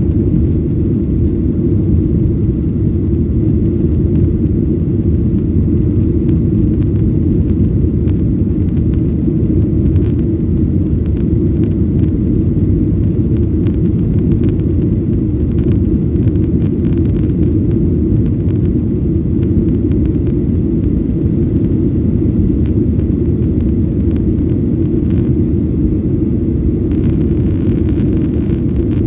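Steady low rumble inside the cabin of a Boeing 737-800, made by its CFM56 engines and the airflow around the fuselage.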